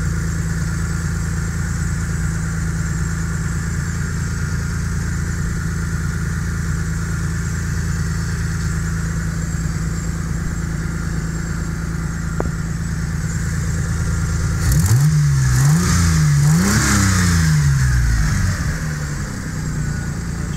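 Carbureted Nissan VG30E V6, running on freshly rebuilt heads and new head gaskets, idling steadily and smoothly. About three-quarters of the way through it is revved twice, each rev rising and falling, then it settles back to idle.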